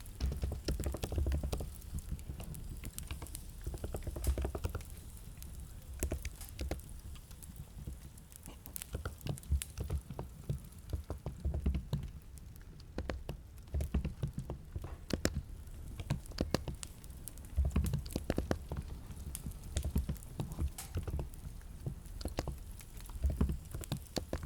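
Typing on a computer keyboard: an irregular run of keystroke clicks, each with a soft low thud, with short pauses between bursts.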